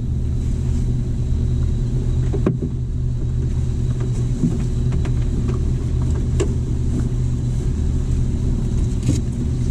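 Jeep Wrangler TJ's engine running steadily at low revs, with a few short knocks and rattles.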